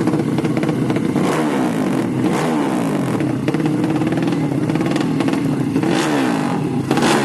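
200cc motorcycle engine running loud and being revved, its note swinging down and back up several times with the throttle.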